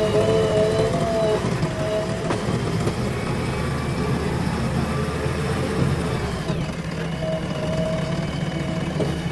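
JCB backhoe loader's diesel engine running steadily under working load, with a whining tone from the machine that rises and falls and comes and goes.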